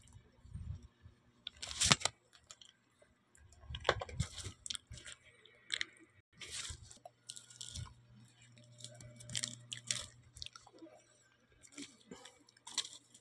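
Person chewing a mouthful of banana in close-up, with irregular wet mouth sounds. Sharp clicks and knocks of the phone being handled are scattered through it.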